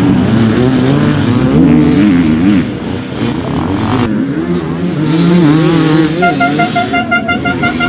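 Dirt bike engine revving up and down unevenly, the rider working the throttle. About six seconds in, a high pulsing horn-like tone joins it.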